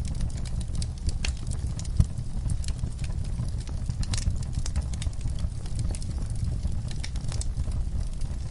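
Wood fire burning in a fireplace: irregular crackles and pops over a steady low rumble, with one sharper pop about two seconds in.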